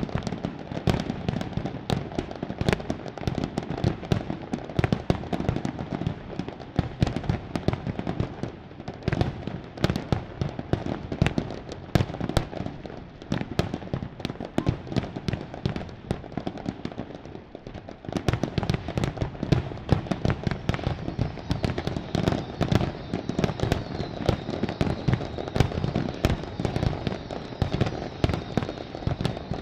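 Aerial fireworks display: a dense, continuous barrage of bangs and crackling bursts over a rumbling low thunder. The barrage thins a little past the middle, then picks up again more thickly.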